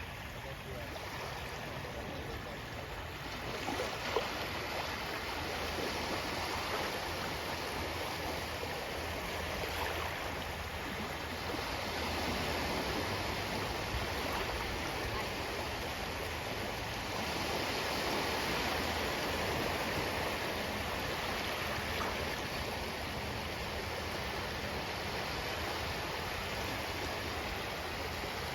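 Ocean surf: a steady rushing wash of waves that swells louder a few times as waves break.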